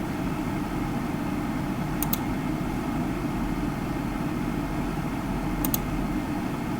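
Steady low rumbling background noise, as from a fan, air conditioner or traffic, with two brief faint high clicks, about two seconds in and again near the end.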